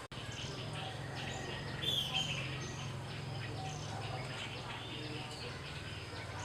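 Birds chirping and peeping in short repeated calls, one louder falling chirp about two seconds in, over a steady low hum.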